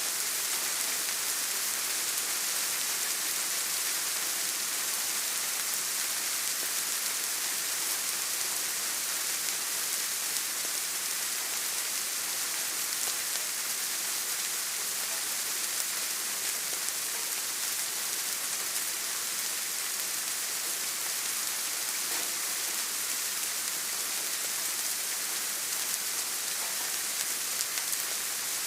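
Steady rain falling, an even hiss of many drops with no changes or single events standing out.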